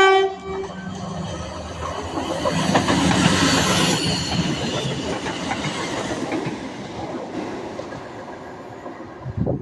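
A train passing, the end of its two-tone horn just at the start, then the noise of the train rising to its loudest about three to four seconds in and slowly fading.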